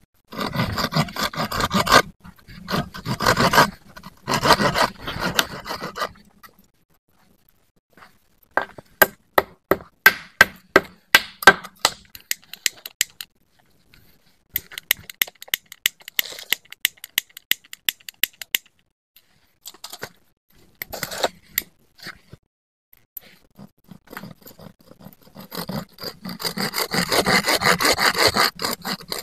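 Wood being cut with a handsaw, in several bursts of quick back-and-forth strokes with short pauses between.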